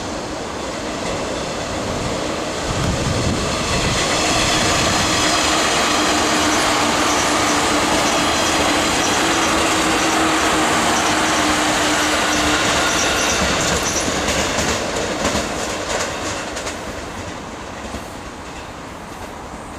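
A train passing on the tracks: a loud, steady rumble with a held low whine and high squealing tones, then a quick run of wheel clicks over rail joints as it fades away.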